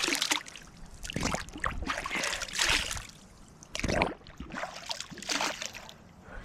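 Creek water splashing and trickling in irregular bursts, with a few knocks, as someone handles things and moves about in shallow water.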